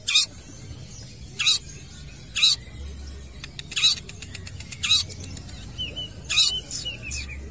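Long-tailed shrike (cendet) calling: six short, harsh, loud calls about a second apart, with softer chirps in between.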